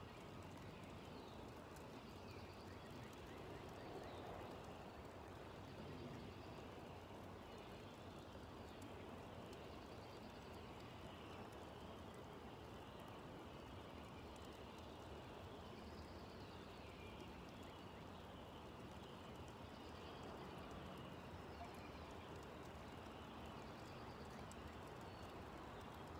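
Birds singing faintly, short chirps and calls recurring throughout, over a low steady background rumble.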